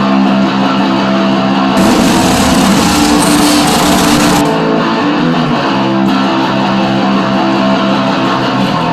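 Instrumental passage of a garage rock song, with electric guitar to the fore over bass. From about two seconds in to about four and a half, a bright hissy layer joins the band.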